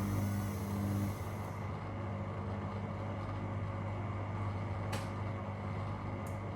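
A steady low machine hum that drops away about a second in, leaving a fainter even running noise, with a short sharp click about five seconds in.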